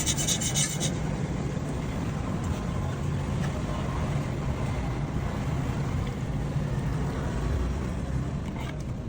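A rasping, filing-like scrape stops about a second in, leaving a steady low mechanical hum.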